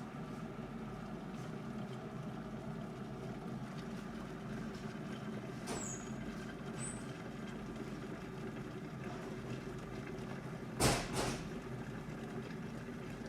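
Xiaomi electric kettle heating water close to the boil, a steady rushing hum, with two brief louder bursts of noise about eleven seconds in.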